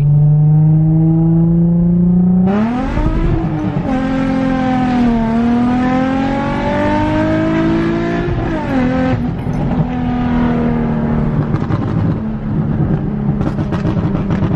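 A car engine running loud under acceleration, its pitch climbing slowly at first, then rising and falling several times as it revs up and eases off, and settling to a steadier drone over the last few seconds.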